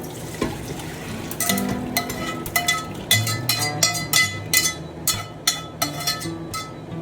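Metal spatula stirring food in an iron wok, clanking against the pan about three times a second, over a frying sizzle. The clanks begin about a second and a half in.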